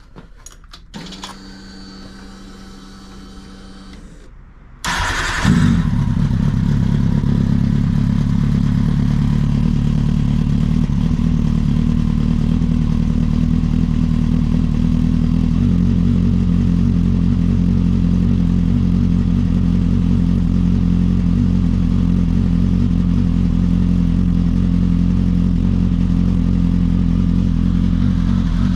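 Kawasaki ZX-10R inline-four on Akrapovic exhausts, cold-started. After a few seconds of faint steady whine, the engine catches about five seconds in with a brief flare, then settles into a steady cold idle.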